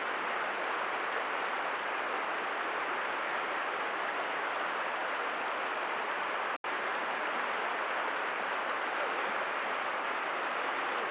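Steady rushing of stream water, with one brief cut to silence about two thirds of the way through.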